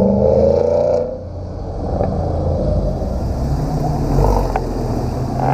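Car engine running with a deep exhaust rumble; a higher revving note drops away about a second in.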